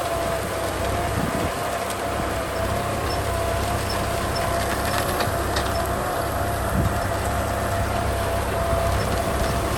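Kubota M6040 tractor's diesel engine running steadily under load while plowing, with a steady high whine over its low drone.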